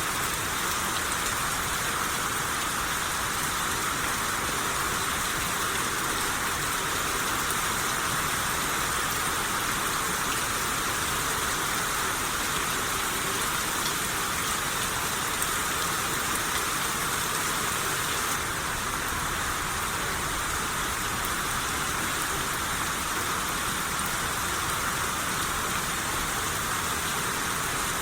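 Steady rain shower falling, an even hiss of rain on surfaces.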